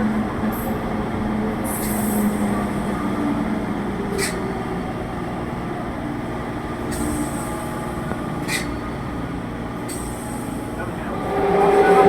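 Electric local train running on the line: steady rumble of wheels on rail with a faint motor hum and a couple of brief sharp clicks. Near the end it grows louder and steady higher tones come in.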